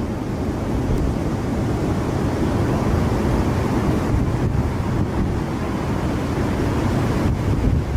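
Strong hurricane wind blowing across the microphone over the wash of big breaking waves: a steady, dense low noise with no let-up.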